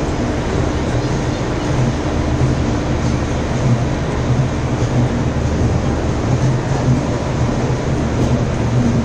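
Indian Railways passenger coaches rolling steadily along a station platform: a continuous low rumble of wheels on rail with light clatter.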